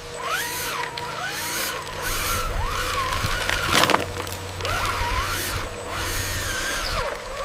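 Small electric motor of a homemade RC vehicle whining as it speeds up and slows down again and again, with a clattering knock a little before four seconds in.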